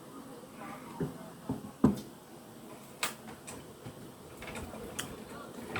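Eating and food-handling sounds: a few scattered soft knocks and clicks, the loudest about two seconds in.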